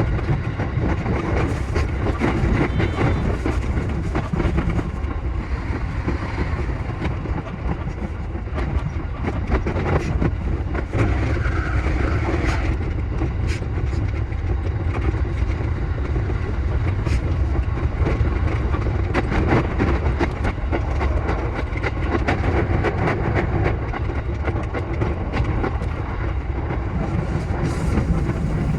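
E233-7000 series electric commuter train running along the track: a steady low rumble of wheels and motors with frequent short clicks from the wheels passing over rail joints.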